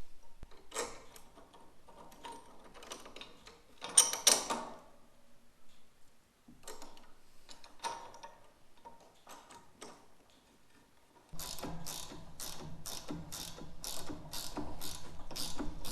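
Tools being handled while brackets for a water drinker are fitted: scattered clicks and a short metal clatter, then, near the end, steady clicking about twice a second over a low hum, like a ratchet being worked.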